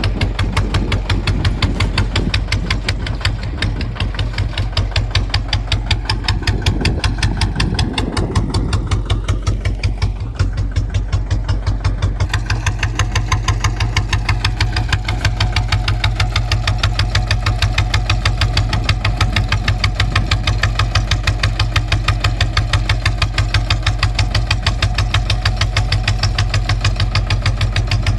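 Kubota ZT155 single-cylinder diesel engine running steadily, its firing strokes coming as a rapid, even pulse. Around ten seconds in the sound dips briefly and shifts, then settles back to steady running.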